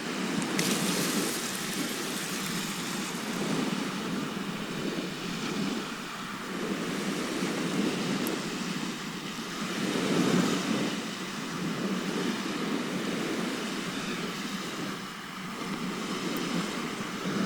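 Sea waves washing onto the shore: a continuous surf hiss that rises and falls in slow swells.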